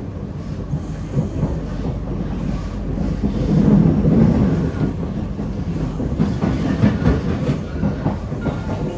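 Kawasaki-CRRC Sifang C151A metro train heard from inside the car while running between stations: a steady wheel-and-rail rumble that swells about three and a half seconds in, with a few clacks over rail joints later on.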